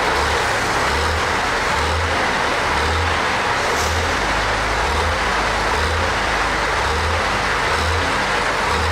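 Motor vehicle driving with a steady, dense engine and road noise. A low pulse recurs about once a second underneath.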